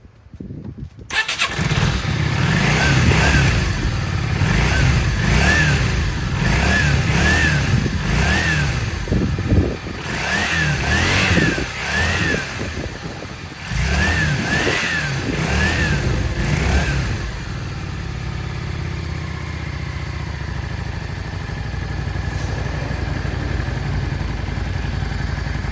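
Yamaha Drag Star 400's V-twin engine starting about a second in, then revved in a series of short blips that rise and fall. From about two-thirds of the way through it settles into a steady idle.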